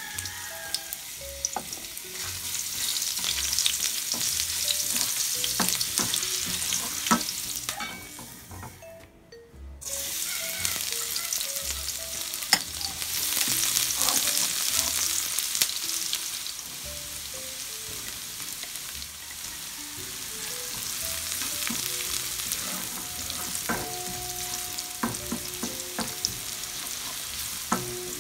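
Ginger, then minced garlic and onion, sizzling in hot cooking oil in a nonstick wok, stirred with a spatula that clicks and scrapes against the pan. The sizzle drops away briefly about nine seconds in, then resumes.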